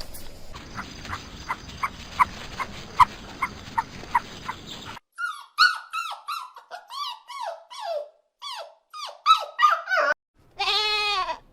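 Animal calls, one clip after another: first a steady series of short high peeps, about three a second, over a faint hiss. Then a run of rapid, high, falling squeaks. Near the end comes a single goat or sheep bleat.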